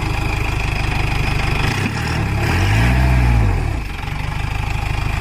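Off-road jeep engine running low and steady, revved up once about halfway through and then falling back.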